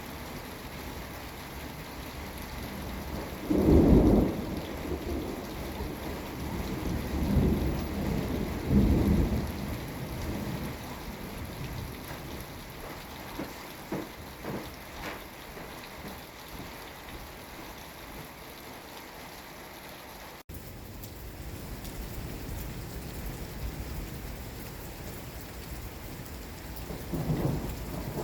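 Steady rain falling through a thunderstorm, with thunder rumbling: the loudest roll comes about four seconds in, two more follow a few seconds later, and another begins near the end.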